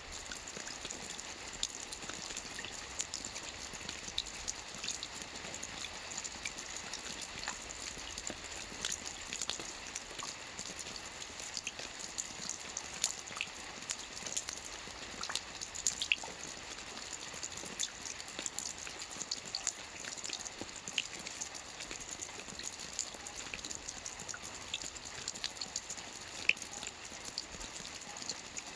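Soft rain falling on a roof: a steady hiss dotted with many small drop ticks, with a few louder drops here and there.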